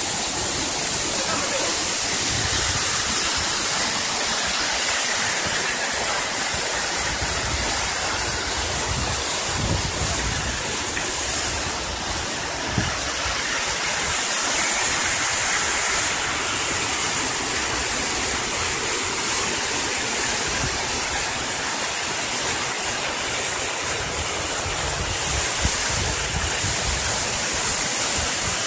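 Waterfall water rushing steadily, a continuous roar of falling water and spray.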